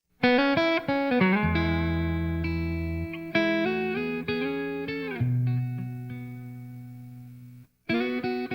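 Blues guitar music starting suddenly after silence: picked single notes and bent, gliding notes over held low bass notes. It stops for a split second near the end and then picks up again.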